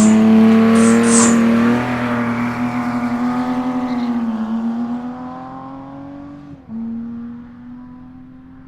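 A car engine held at high, steady revs, fading as the car moves off, with a brief dip in pitch about six and a half seconds in.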